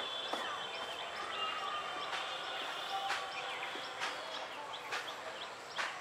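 Birds chirping with many short, quick rising calls, over sharp clicks about once a second.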